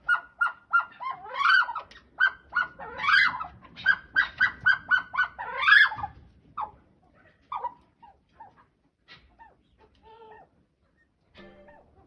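A bird calling in a quick run of short, repeated honking notes, about three or four a second, with a few louder rising calls among them. The calls thin out to scattered notes about halfway through.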